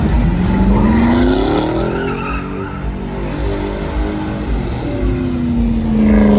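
Truck engine revving hard with tyres squealing in a burnout. The engine's pitch climbs over the first couple of seconds, then a second, louder rev near the end falls away.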